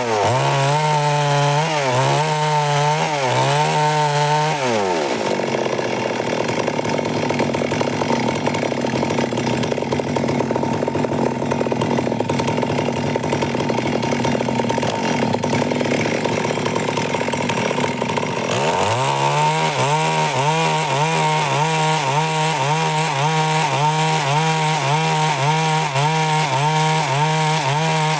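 Stihl MS 382 two-stroke chainsaw cutting through wood. Its engine pitch rises and falls in a regular rhythm, about one and a half times a second, then for over ten seconds it runs at a steadier, even pitch before the rhythmic rise and fall returns.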